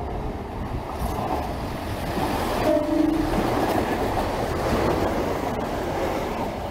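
Diesel multiple-unit passenger train running through the station at speed: a steady rushing of wheels and engine that swells to its loudest about three seconds in. The train horn gives a brief two-tone blast, a higher note then a lower one, at that point.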